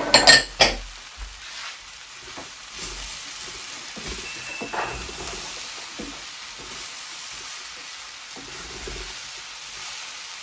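Diced vegetables and pearl barley frying with a steady sizzle in a stainless-steel pan while being stirred, with a few sharp knocks in the first second.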